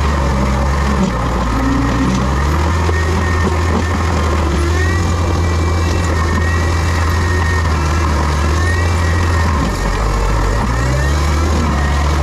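Diesel engine of heavy land-clearing equipment running steadily under load, with a higher whine that bends up and down in pitch; the engine note dips and recovers about ten seconds in.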